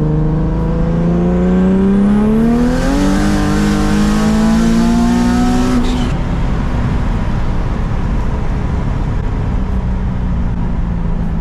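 Turbocharged car engine accelerating hard, its pitch climbing for about six seconds with a loud hiss joining about halfway through. The throttle then closes abruptly and only a steady low road drone remains. During this pull the turbo is not holding boost: the driver reports it staying over 20 psi but falling off, and suspects a maxed-out turbo or too much back pressure.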